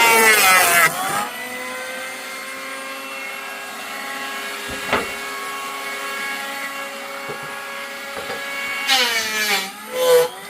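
A motor running with a steady pitched hum. Its pitch dips and rises in the first second and again near the end. There is a single sharp knock about five seconds in.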